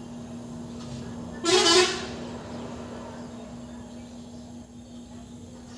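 A single short, loud horn-like honk lasting about half a second, about a second and a half in, over a steady low hum.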